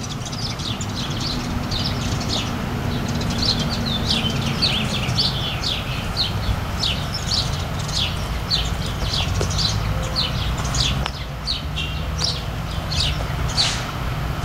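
Songbirds chirping in many quick, short down-slurred notes, several a second, over a low steady rumble.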